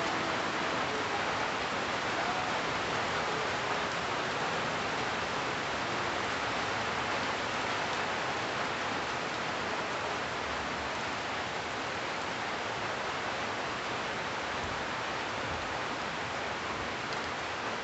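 Steady rain falling on tree leaves, an even hiss with no breaks.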